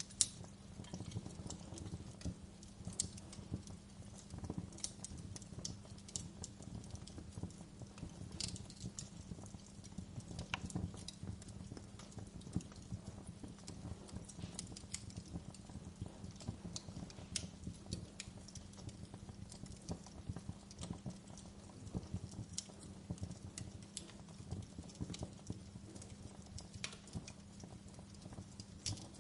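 Log fire crackling: irregular sharp pops and snaps over a steady low rumble, with the loudest pop just after the start.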